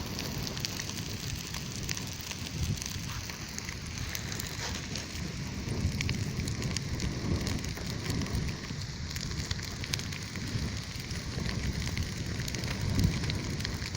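Wood campfire crackling, with irregular sharp pops and snaps over the steady rush of the flames.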